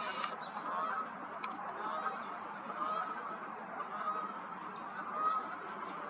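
Distant birds calling, short calls repeating about once a second, over a steady background hiss.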